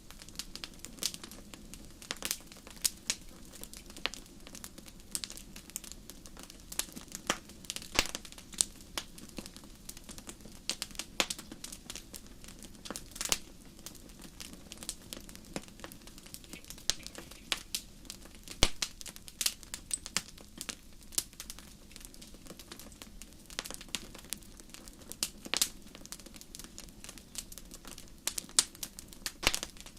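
A fire crackling: irregular sharp snaps and pops, several a second and uneven in loudness, over a steady low rush of the flames.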